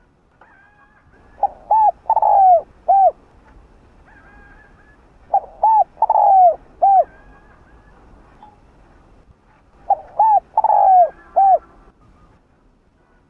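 Spotted dove cooing: three phrases about four seconds apart, each of four notes, the third long and falling in pitch. Fainter, higher bird calls sound between the phrases.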